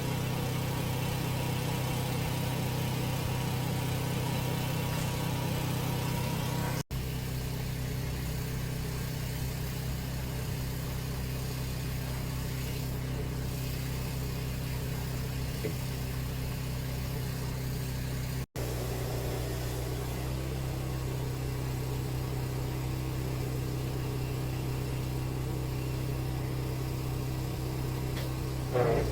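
An engine runs steadily in a low, even hum. The sound drops out for an instant twice.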